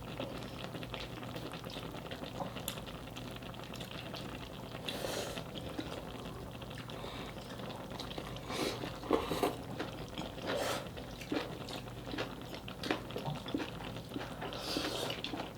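Dakgalbi in a shallow broth bubbling and simmering steadily in a pan, with scattered short clicks and taps over it, more of them in the second half.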